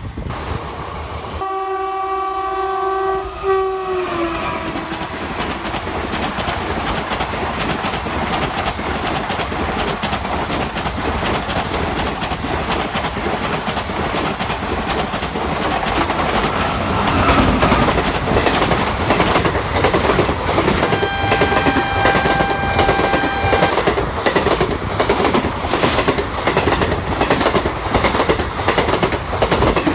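WAP-4 electric locomotive sounding its horn as it approaches, the pitch dropping as it passes, followed by ICF coaches running by at about 110 km/h with a rapid clickety-clack of wheels over rail joints. A second steady horn blast sounds about two-thirds of the way through.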